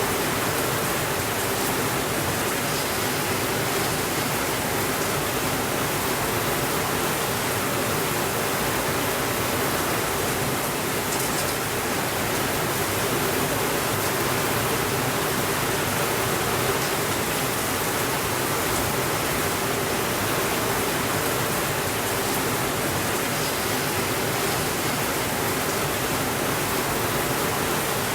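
Steady rainfall, an even hiss that holds at the same level throughout without breaks or thunder.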